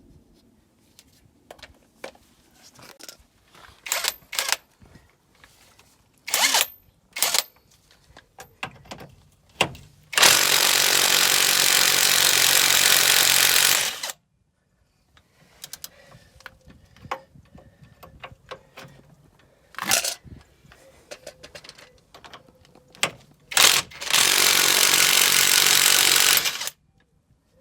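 A power tool runs twice in long bursts, about four seconds and then about three seconds, as a part is being undone, with sharp metal clicks and knocks of hand tools in between.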